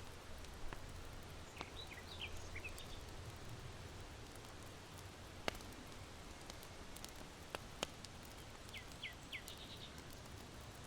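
Charcoal fire in an irori hearth crackling, with scattered sharp pops, the loudest about halfway, over a steady low wind noise. A small bird chirps in two short runs of quick, downward-sliding notes, about two seconds in and again near the end.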